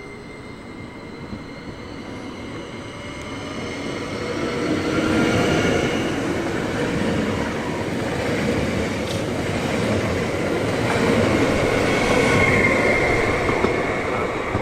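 A train passing at close range. It grows louder over the first five seconds and stays loud, with thin high squealing tones from the wheels on the rails.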